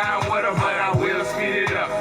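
Hip hop track: a rapping voice over a beat with deep kick drums that drop in pitch.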